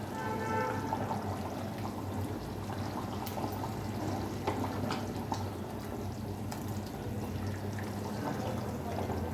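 Chicken curry simmering in the pot, a steady bubbling hiss, over a low steady hum.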